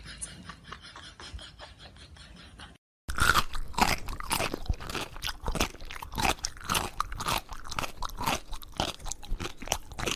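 Close, loud crunching and chewing of something crisp, starting suddenly about three seconds in after a brief drop to silence; before that only faint ticking.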